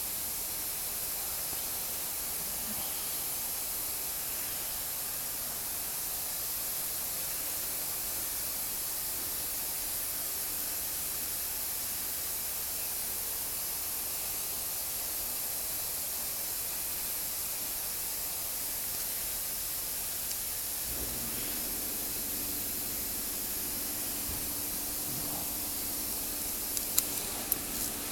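Steady hiss with no change in level, most likely the background noise of the recording. A faint low hum joins about three-quarters of the way through, and a few light clicks near the end fit small bolts being handled and set into the valve body.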